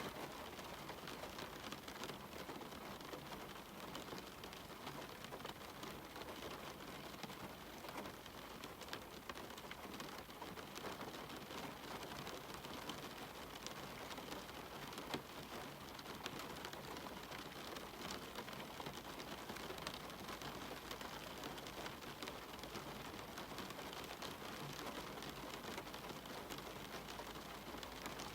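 Steady rain falling on a cabin window and the surrounding forest: an even hiss of many small drop ticks, with one sharper drop about halfway through.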